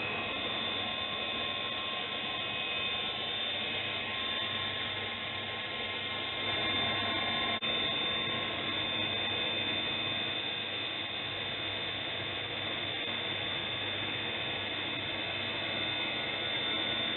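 Vortex belt sander running steadily with a 400-grit belt while a knife blade is sharpened against it to raise a burr: a constant motor hum and belt hiss.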